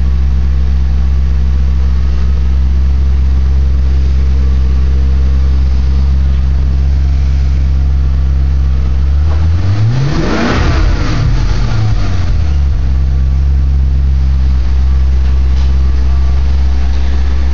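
2002 Maserati Spyder's 4.2-litre V8 idling steadily through its stock factory exhaust. About nine seconds in it is revved once: the pitch climbs quickly, then drops back to idle a couple of seconds later.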